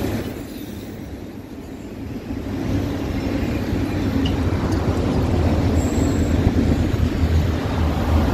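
Freight train of enclosed autorack cars rolling past at trackside: a steady low rumble of steel wheels on rail. It dips briefly about a second in, then builds back up and stays loud.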